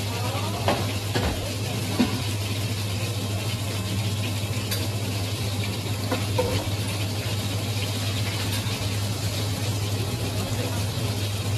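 Food sizzling as it fries, with a few sharp clinks and knocks of utensils and a steady low machine hum underneath.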